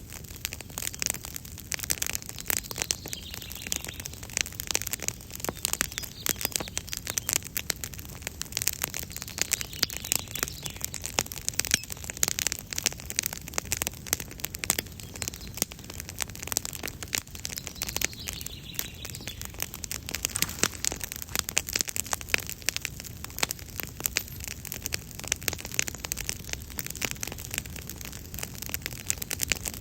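Wood campfire crackling steadily, with a constant stream of small pops and snaps.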